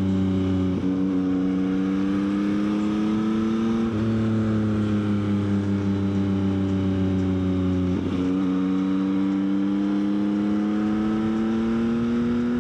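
Yamaha XSR900's inline-three engine running under way at moderate revs. Its note drifts slowly up and down, with brief breaks about a second in, near four seconds and near eight seconds.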